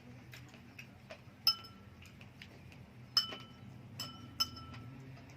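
Cutlery clinking against tableware at a meal: four clear clinks, each leaving a short ringing tone, with a few lighter ticks between them.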